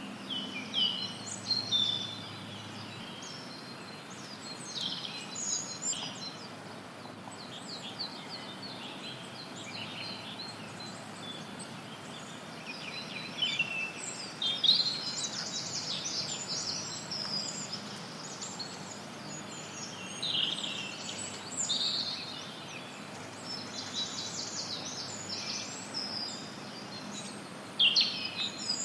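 Many songbirds chirping and trilling in short, overlapping phrases over a steady hiss of added white noise.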